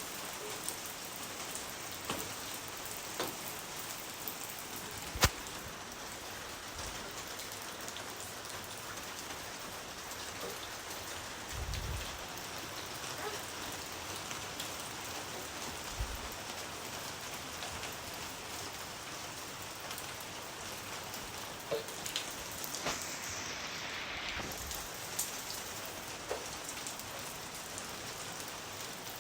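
Steady rain falling on a surface, with scattered individual drops ticking out over the constant patter and one sharp, much louder drop hit about five seconds in.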